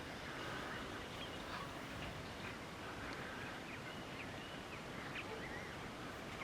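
Birds calling: a scatter of short chirps and calls over a steady outdoor hiss.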